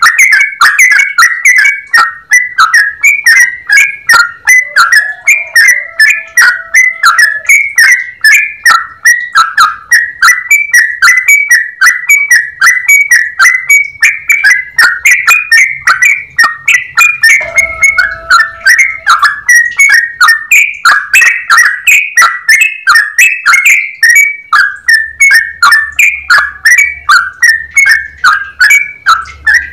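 Yellow-vented bulbul (trucukan) singing in a long, unbroken run of loud, clear, chattering notes, several a second, without a pause.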